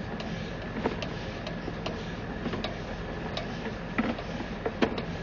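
Irregular sharp clicks and taps from a sewer inspection camera being pushed along a drain line, over a steady hum with a faint high whine; the two loudest clicks come about four seconds in and near the end.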